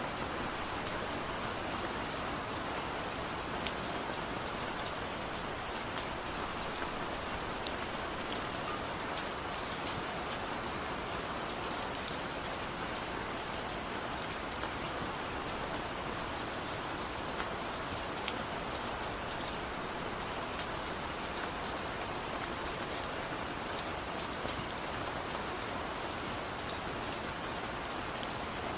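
Steady rain falling, an even hiss with many individual drops ticking throughout.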